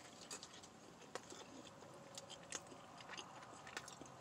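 Faint sounds of a person biting into and chewing a large chicken burrito, with soft, scattered small mouth clicks.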